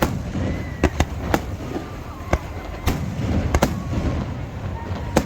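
Fireworks display: sharp, irregularly spaced bangs of bursting shells, about nine in a few seconds, over a steady low rumble.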